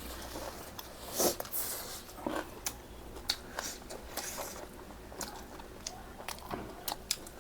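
Close-up eating sounds: bites, chewing and wet mouth smacks and clicks at irregular intervals, with the loudest bite about a second in.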